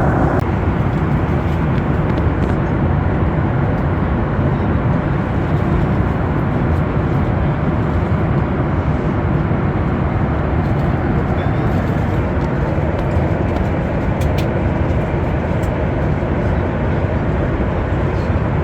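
Steady in-flight cabin noise of a Boeing 737 MAX 8 in cruise: an even, dense low rush that does not change.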